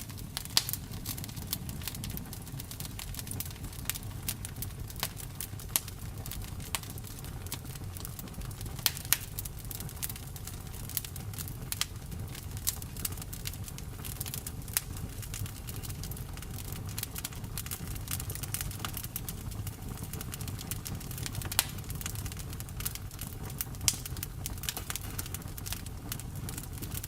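Campfire burning: a steady low rumble with irregular sharp crackles and pops, several of them louder than the rest.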